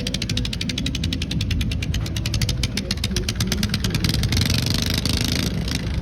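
Garden pulling tractor engine running, with a rapid, even ticking that slows over about four seconds and stops, leaving a steady hiss over the engine rumble.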